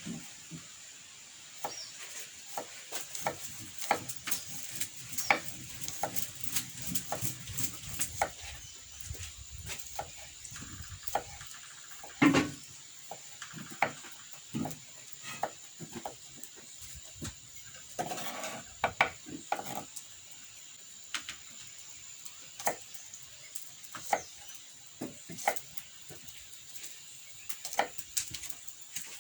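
Irregular light knocks and clinks, scattered through the whole stretch, with the loudest about twelve seconds in, over a steady high-pitched tone.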